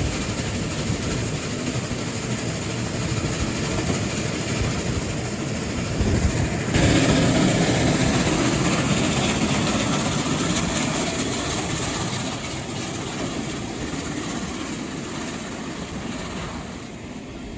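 Train hauled by steam locomotive 3801 running along the line, heard from on board as a steady rumble of the carriages on the rails. About seven seconds in the sound suddenly gets louder, then slowly fades over the following ten seconds.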